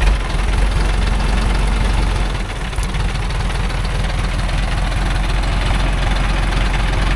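Engine of a small loaded logging truck running steadily with a low, rapid throb.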